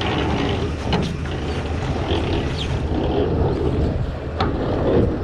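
Scania V8 truck engine idling steadily, with a couple of short metallic clicks about a second in and near the end.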